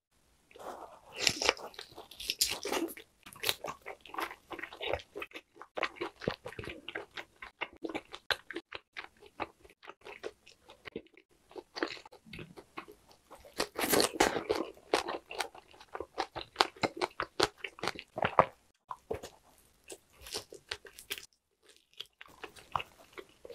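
A person eating close to the microphone: chewing and crunchy bites of grilled lamb and green onion kimchi, in irregular crackling bursts, loudest near the start and again about halfway through.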